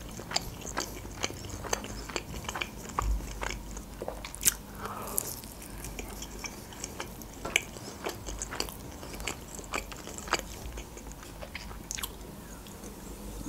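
Close-miked chewing and biting of crisp fried khinkali (pan-fried Georgian dumpling dough): a string of short, crackly crunches and wet mouth clicks.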